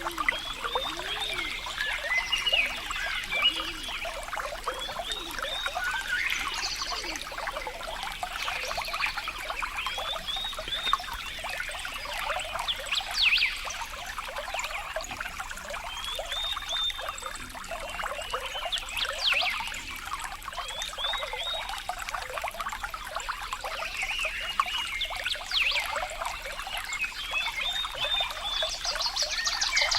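Water trickling and splashing steadily, like a small stream or cascade, with many short animal calls chirping over it throughout.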